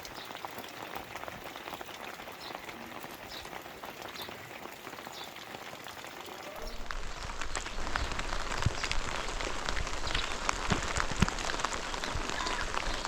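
Heavy rain falling, a dense patter of individual drops splashing; about two-thirds of the way through it becomes louder and denser, with occasional heavier low thuds of drops.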